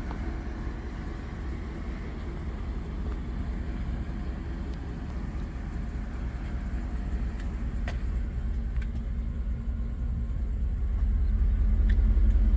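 2011 Chevrolet Tahoe's 5.3L V8 engine running with a steady low rumble that grows louder near the end. A couple of faint clicks are heard.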